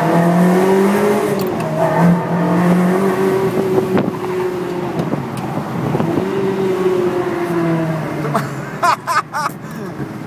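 Ferrari 360 Modena's 3.6-litre V8 heard from inside the cabin, driving through town, its engine note rising and falling as it pulls and changes gear. A few short, loud, sharp sounds break in about nine seconds in.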